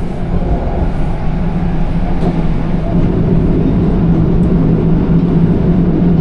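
Electric express train running along the line, heard from inside the carriage: a steady rumble of wheels and running gear with a constant low hum, growing slightly louder about halfway through.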